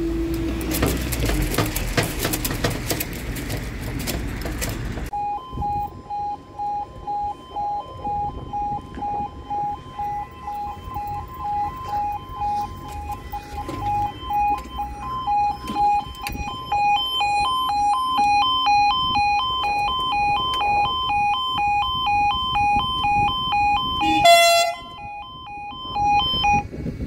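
Level crossing warning alarm starting about five seconds in, after a few seconds of broad rushing noise. It is a two-tone yodel that alternates evenly between a lower and a higher tone as the crossing closes. There is a brief loud squawk near the end, and then it cuts off.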